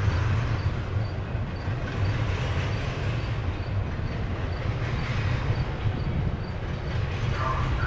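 Double-stack intermodal freight cars rolling past at steady speed, a continuous low rumble of steel wheels on rail.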